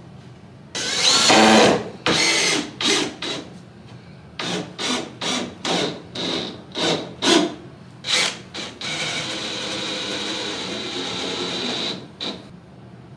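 Sanding wood: a run of short rubbing strokes, about two a second, then about three seconds of steady sanding with a thin high whine, stopping sharply near the end.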